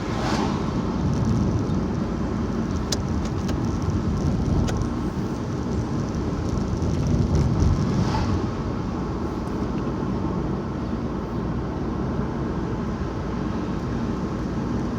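Steady road and engine noise heard inside a moving car's cabin: a low rumble from the tyres and engine, with a couple of sharp clicks or rattles a few seconds in.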